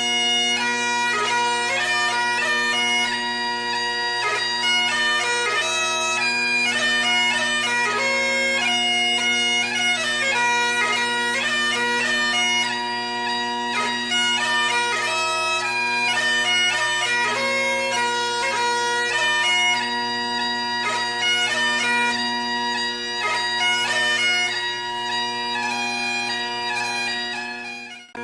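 Bagpipe music: a quick chanter melody with rapid grace-note ornaments over steady drones, dipping briefly at the very end.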